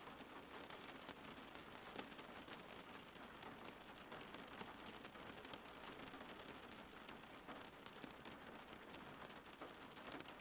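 Faint steady rain: an even hiss with many small drop ticks scattered through it.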